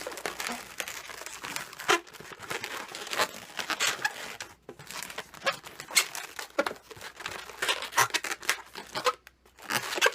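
Latex modelling balloon rubbing and squeaking in the hands as it is twisted and wrapped around a pinch twist, in short irregular strokes.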